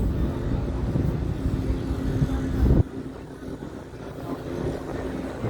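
Motor vehicle engines running, with a steady low hum. A loud low rumble covers the first three seconds and cuts off suddenly.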